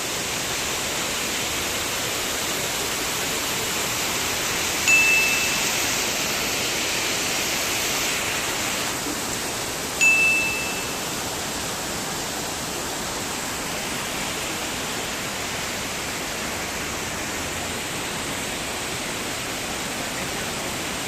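Steady rushing water. Two bright chime pings sound over it, about five seconds apart, each ringing for about half a second.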